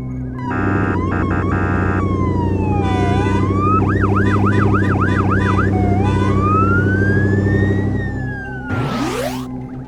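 Cartoon emergency-vehicle siren sound effect: a slow rising and falling wail, a quick run of yelps about four seconds in, then another long wail, over a steady low engine drone. A rising sweep comes near the end.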